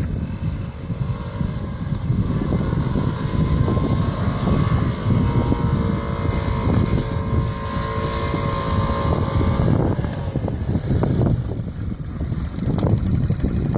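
Motorcycle engine running steadily under a heavy low rumble of wind on the microphone; its engine note holds a steady pitch and fades about ten seconds in.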